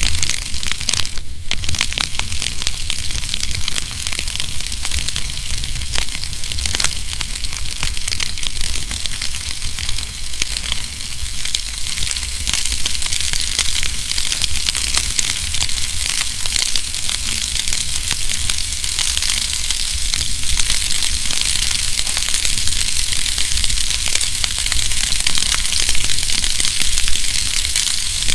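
Wood fire burning in a fireplace, with continuous crackling and frequent sharp snaps and pops over a steady hiss and low rumble.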